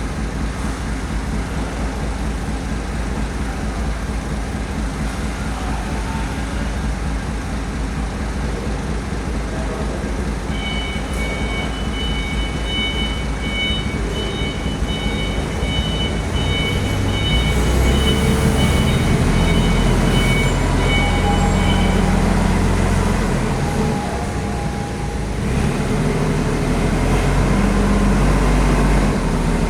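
Heavy vehicle engine running steadily, getting louder and rougher after about seventeen seconds. For roughly ten seconds in the middle a high electronic beep pulses rapidly over it.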